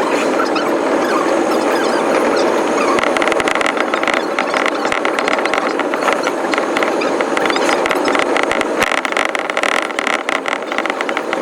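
Running sound of a JR East electric commuter train, played back at five times speed, so it comes out as a dense, fast chatter. From about three seconds in, a steady high tone rides over it.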